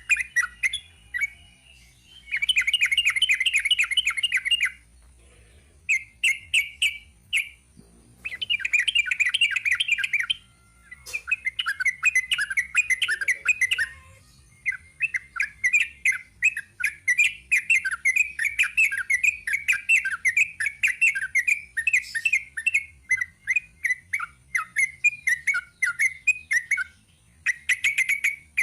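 A sooty-headed bulbul (trucuk) singing a long, rapid run of short bubbly whistled notes. It starts with a few phrases of a couple of seconds each, then gives one long unbroken burst lasting about fifteen seconds.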